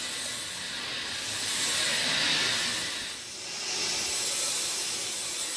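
Steady rain, a dense hiss that swells and eases slowly, dipping briefly a little after the middle.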